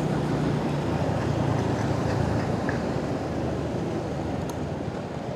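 Motorcycle engine running at a steady cruise, with wind and road noise on the rider's microphone.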